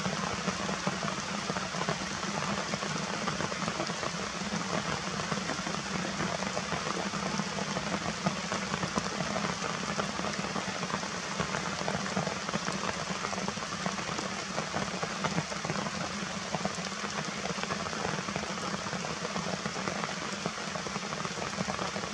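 Steady rain falling and pattering on surfaces, a dense crackle of many small drop impacts.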